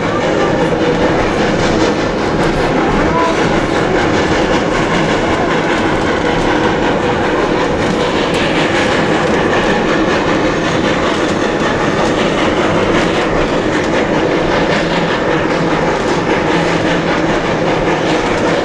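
Heritage passenger train running on the rails: a steady rolling rumble of car wheels on track, with faint clicks over the rail joints.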